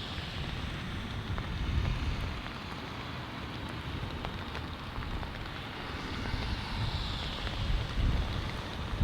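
Steady rain and wind on the microphone, with the low rumble of a jet airliner's engines that swells near the end.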